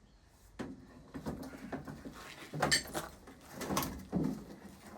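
Knocks, clatters and scraping as a microwaved laptop is handled and pulled out of a microwave, four separate bumps standing out over the handling noise.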